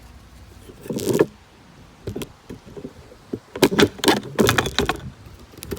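PVC pipe and fittings being handled: a series of sharp plastic knocks and rattles, with a burst of clattering in the second half.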